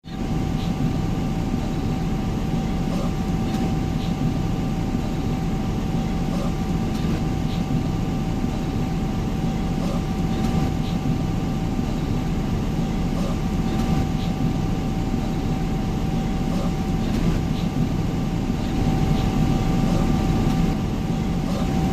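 Steady cabin noise of an airliner in flight: a constant low rumble with a faint steady hum of two tones above it.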